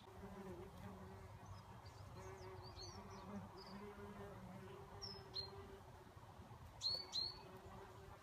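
A red mason bee's wings buzzing in flight, a low hum that fades in and out. Small birds chirp in the background, with two sharper chirps close together near the end.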